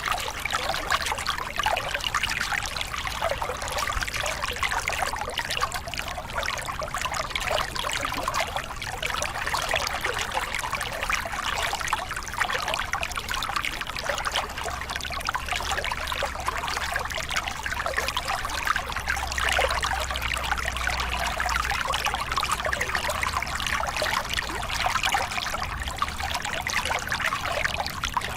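Small river cascade: water pouring and splashing over rocks in a steady, unbroken rush with a fine bubbling texture.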